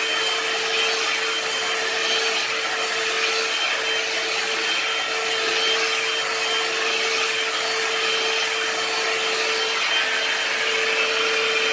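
One-step hot-air brush hair dryer and styler running on its high setting: a steady rush of air with a steady hum from its motor underneath.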